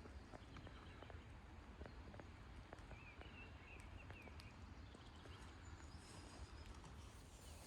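Near silence: faint outdoor ambience with a low rumble, scattered light clicks, and a short run of bird chirps about three seconds in.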